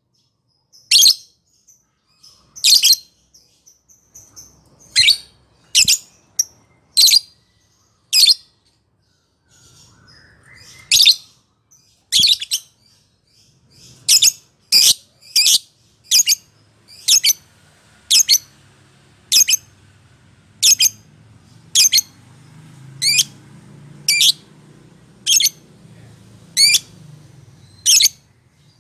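Lovebird giving a long series of short, shrill calls, at first irregularly spaced, then from about halfway in a steady run of roughly one and a half calls a second.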